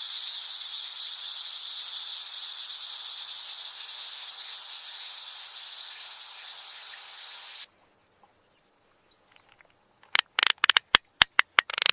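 A steady high-pitched hiss that cuts off abruptly about two-thirds of the way through. Near the end comes a quick run of sharp clicks.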